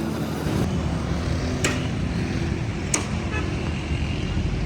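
Steady low motor-vehicle rumble, with two sharp clicks about a second and a quarter apart.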